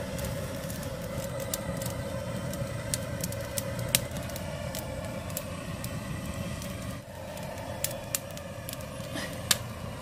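Wood fire burning in a hearth, with sharp irregular crackles and pops over a steady rushing noise.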